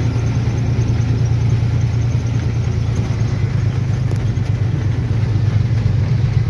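A truck's engine running steadily, a continuous low hum.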